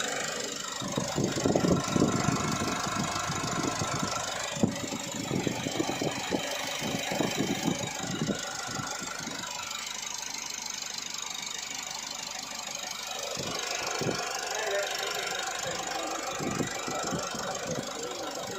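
Isuzu RZ4E four-cylinder turbodiesel idling steadily, with irregular clattering knocks over it for the first several seconds and again near the end.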